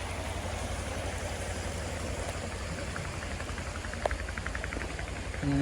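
Steady rush of flowing stream water, with a faint run of quick ticks in the middle and a single click about four seconds in.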